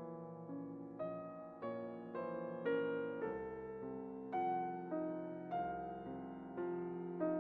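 Slow, gentle piano music, single notes and chords struck about every half second and left to ring.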